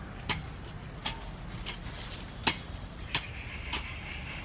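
Sharp, irregular clicks and clinks, one every half second to second, as a small metal hand tool knocks and scrapes through soil around the chilli plants.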